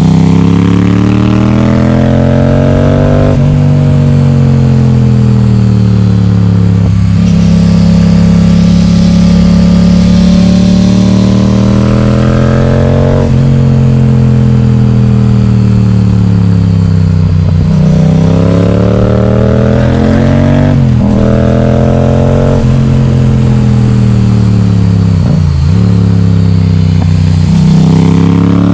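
Yamaha XSR700's 689 cc parallel-twin engine through an Akrapovic exhaust with its baffle removed, loud and open. The engine note climbs under acceleration and drops sharply at gear changes, then falls and rises again several times as the bike slows and pulls out of corners.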